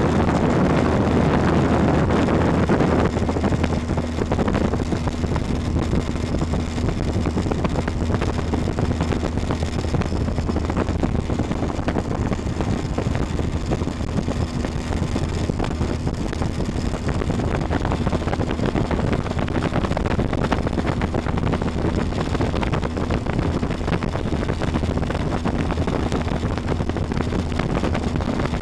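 Motorboat engine running steadily under way, with rushing wind and water noise over it; the rush is louder for the first three seconds or so, then settles.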